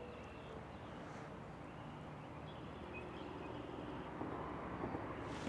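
Faint outdoor background noise: a low steady rumble that slowly grows louder, with no distinct event.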